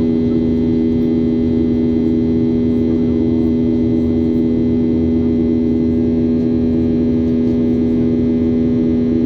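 Steady cabin drone of a Boeing 737-800 in flight: engine and airflow noise with a constant low hum, unchanging throughout.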